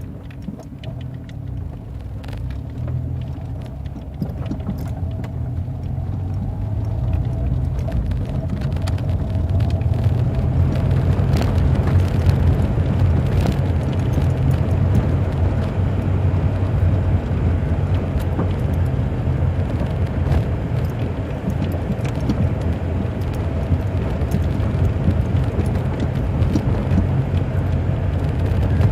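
Steady low rumble of a motor vehicle running, with a faint steady tone above it, growing louder about eight seconds in.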